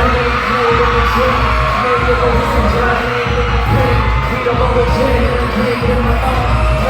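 Live pop music through concert speakers: a deep, pulsing bass beat comes in with a sustained synth tone above it, while a crowd of fans screams and cheers over the music.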